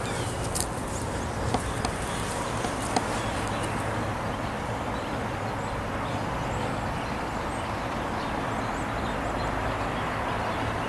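Steady outdoor background noise, an even low rumble and hiss, with a few faint bird chirps and small clicks.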